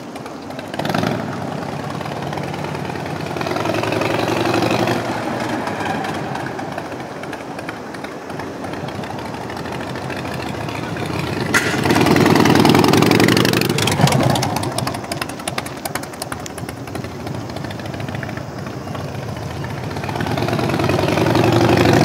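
1996 Harley-Davidson Heritage Softail Special's Evolution air-cooled V-twin running, idling between three revs that rise and fall back: about four seconds in, around twelve seconds in, and near the end.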